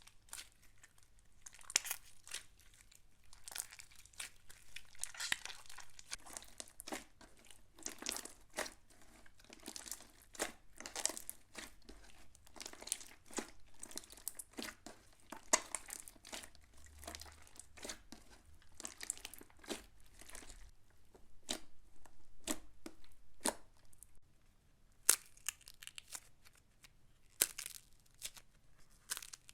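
Slime being kneaded and stretched by hand, giving a dense, irregular run of short pops and crackles.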